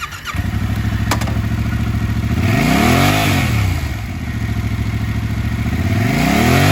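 2021 Yamaha MT-07's liquid-cooled parallel-twin engine catching just after the start and settling into a steady idle. It is then revved twice, each blip rising and falling over about a second and a half, once near the middle and again near the end.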